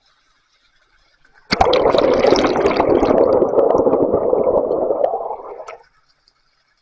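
Water gushing and gurgling for about four seconds, starting suddenly and cutting off abruptly.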